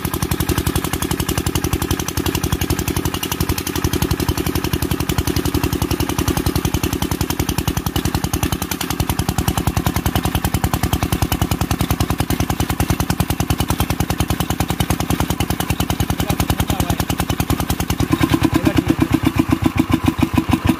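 Kirloskar single-cylinder diesel engine running with a rapid, even firing beat. The beats turn louder and heavier about 18 seconds in.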